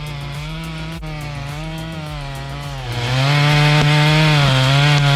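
Stihl MS 462 two-stroke chainsaw running at high revs, its pitch wavering slightly. About three seconds in it gets louder and rougher as the chain cuts into the wood.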